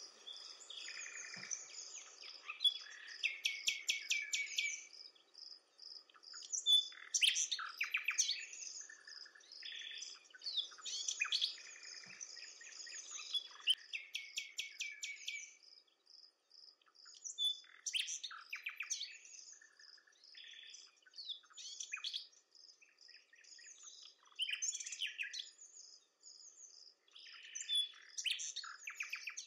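Several songbirds singing, overlapping phrases and rapid trills with short pauses between them, over a steady high-pitched hum.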